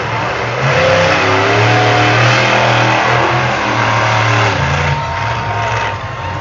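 Truck engine revving hard at a motorsport arena, swelling to full throttle about a second in and easing off near five seconds.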